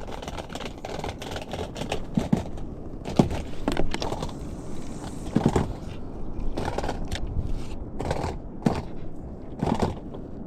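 Irregular knocks, taps and scrapes of handling on a fishing ski, about ten sharp ones spread unevenly, over a steady rush of wind and water.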